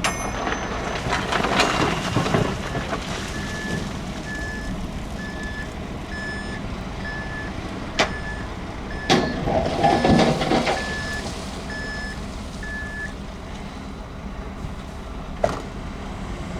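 Heavy construction machine's diesel engine running while its reversing alarm beeps steadily, about one and a half beeps a second, stopping near the end. Two stretches of rough gravel-and-rock scraping and a few sharp metallic clanks sound over it.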